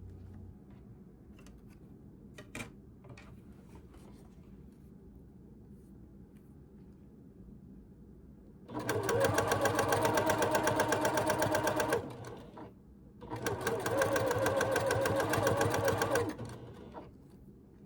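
Sewing machine stitching in two runs of about three seconds each, the needle going at a fast, even rhythm, with a short pause between them. Faint clicks of handling come before.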